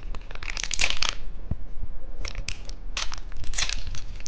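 Close-up crunching of a hard candy being bitten and chewed, in several short bursts of crackly crunches.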